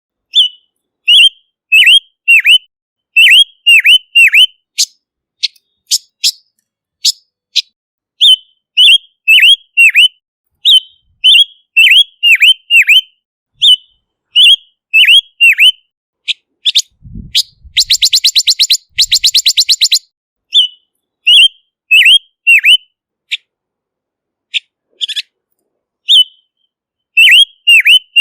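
Male silver-eared mesia (Leiothrix argentauris) calling: short, loud, whistled notes in quick groups, many swooping down and back up, with a fast harsh rattle about two-thirds of the way through. It is a clean lure recording of the bird's song.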